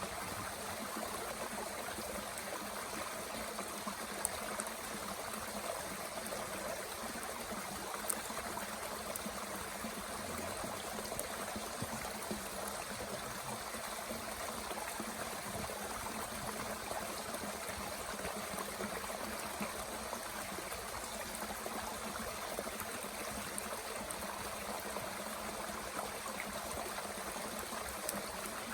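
Mountain stream running steadily, with a few sharp crackles from a small wood fire burning in a Bush Box stove.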